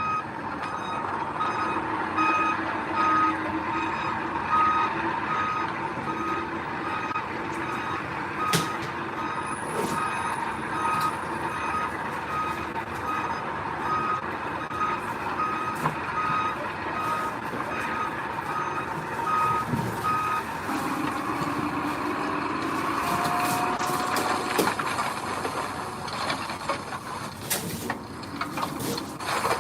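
Heavy machine's reversing alarm beeping at an even rate of about one and a half beeps a second over a diesel engine running. The beeping stops about two-thirds of the way through, and the engine noise goes on with scattered clanks.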